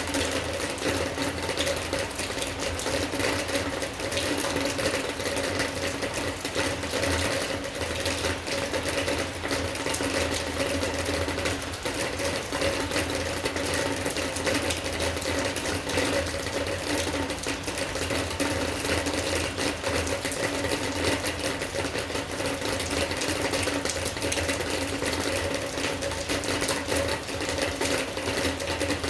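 Steady rain with a dense, fast patter of drops, over a constant low hum.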